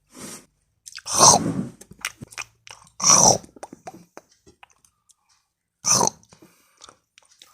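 Close-miked eating of chicken adobo with rice by hand: wet chewing with many small mouth clicks and three louder smacking bursts about one, three and six seconds in.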